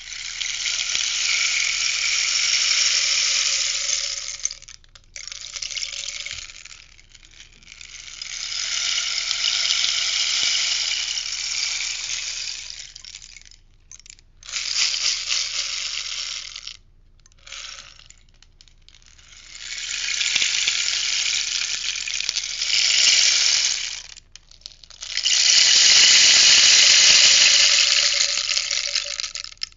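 Rainstick being tipped over and over, its beads trickling down inside with a hissing patter like rain. There are about six pours of a few seconds each with short pauses between them, the longest and loudest near the end.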